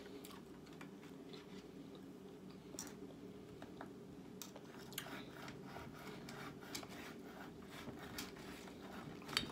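Quiet, close-up chewing and mouth sounds of a person eating, with scattered small clicks and smacks over a steady low hum.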